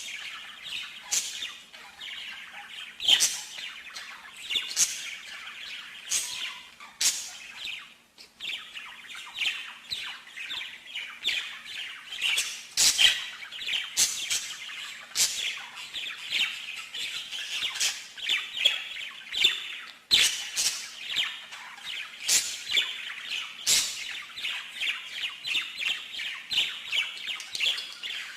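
Songbird singing continuously: fast chirps and trills with frequent sharp, piercing notes, and a brief pause about eight seconds in. This is the kind of song played to stimulate a pet bird to sing.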